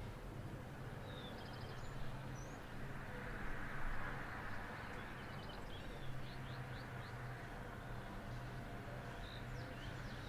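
Small birds chirping in short, scattered calls over outdoor background noise, with a soft swell of noise about four seconds in and a steady low hum underneath.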